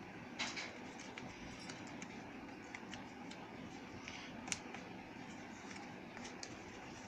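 Sheet of paper being handled and folded: faint crinkles, taps and creases over a steady background hiss, with a sharper crackle about half a second in and another about four and a half seconds in.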